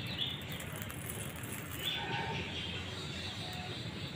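Small birds chirping in quick series of short notes, over steady background noise, with a faint fine crackle in the first two seconds.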